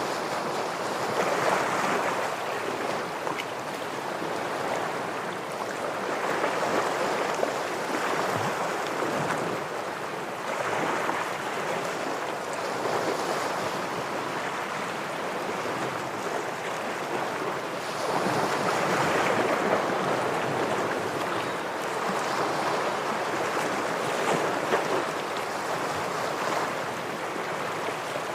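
Ocean surf washing against shore rocks, a steady rush of water that swells and falls back every few seconds.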